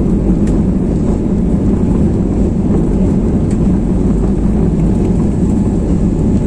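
Airbus A321neo jet engines at takeoff thrust, heard inside the cabin as a steady, loud, deep noise.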